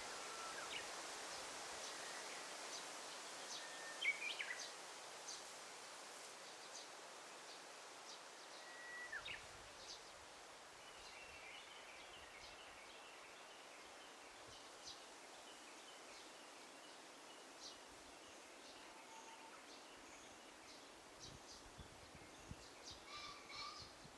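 Forest ambience: a faint steady rustling hiss with scattered songbird calls. There are short whistled notes that drop in pitch about four and nine seconds in, and bursts of twittering around halfway and near the end.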